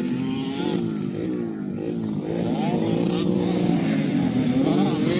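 Several 85cc motocross bikes racing together, their engines revving up and down at different pitches and overlapping.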